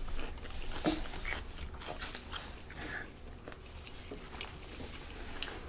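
Chewing and biting on food, with scattered small mouth clicks and a few brief low noises.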